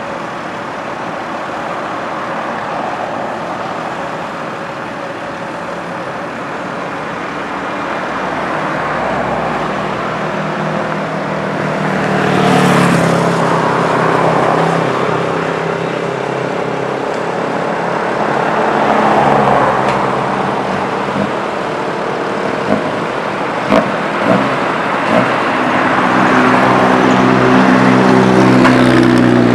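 Diesel engine of a Komatsu PC120 hydraulic excavator running, swelling and rising in pitch as it is revved about twelve seconds in and again near the end. A few sharp clanks come about two thirds of the way through.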